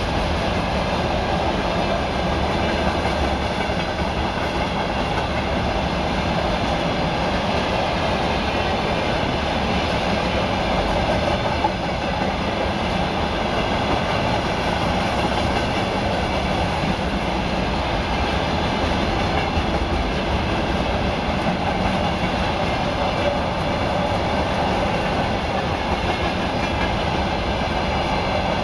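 Freight train's wagons rolling past at speed, a steady rumble and rattle of steel wheels on the rails.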